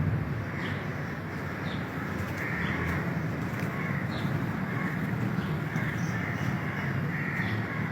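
Crows cawing several times over a steady low outdoor hum.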